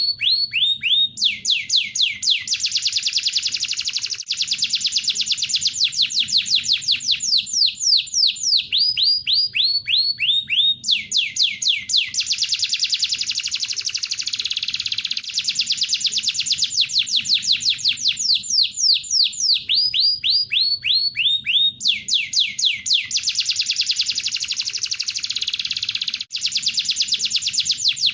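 Recorded songs of a collared kingfisher and a domestic canary played as a bird-training loop: fast runs of high, falling whistled notes alternate with dense rolling trills, and the sequence repeats about every 11 seconds.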